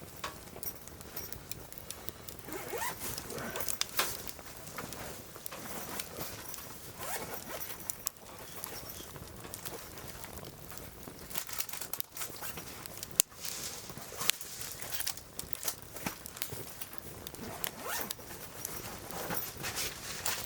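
Firewood burning in a fire grill, crackling with irregular snaps and pops, and one sharper crack about 13 seconds in.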